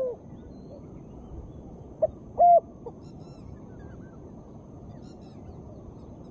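Spotted dove cooing: the end of one call right at the start, then a short three-note coo about two seconds in, over a steady faint hiss.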